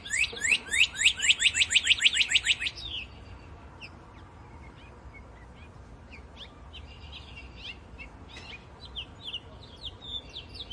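Small songbird calling: a fast run of sharp, down-slurred high notes for about the first three seconds, then fainter, scattered chirps.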